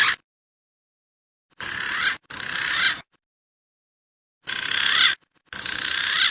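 Recorded call of a male green pigeon (punai) played as a lure: two pairs of wavering phrases, each about half a second long and growing louder toward its end, the pairs about three seconds apart.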